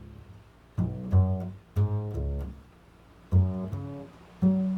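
A plucked string instrument plays a slow improvised phrase of about six low notes. Each note rings and fades, with a short pause in the middle.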